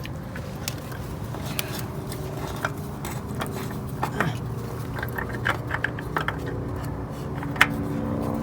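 Irregular light metallic clicks and clinks of a hand wrench and tools being worked on fittings under a truck during an oil change, over a steady low background hum.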